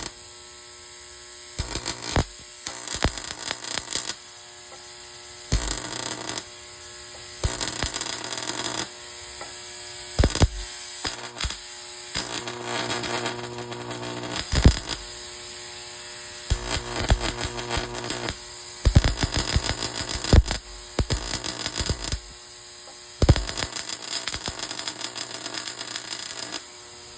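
High-voltage sparks from a home-made capacitor discharge rig: repeated spells of rapid, crackling arcing, each lasting one to three seconds, with a steady electrical hum between them.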